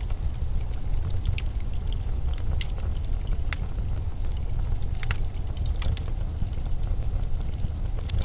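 Blizzard wind blowing as a steady low rumble, with scattered sharp crackles and ticks throughout.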